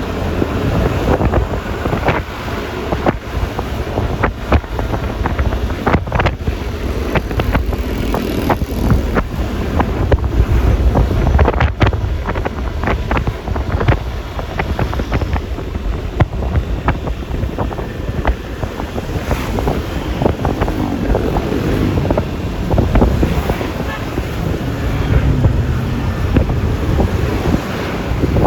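Wind rushing and buffeting on the microphone of a riding scooter, with the Yamaha Lexi LX 155 scooter's engine and road noise underneath. Frequent short crackles of wind gusts run through it.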